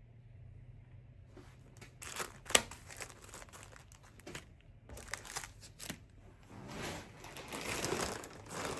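Plastic packaging crinkling and rustling in handling as items are pulled out of shipping bags, in irregular bursts with a sharp click about two and a half seconds in.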